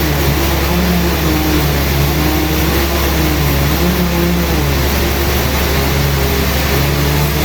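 Sawmill machinery running with a steady, loud engine-like drone whose pitch wavers up and down.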